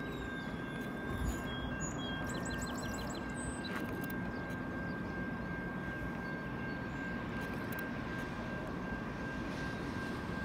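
Distant approaching train, a steady low rumble with no horn yet. A bird calls a quick series of high notes about two to three seconds in.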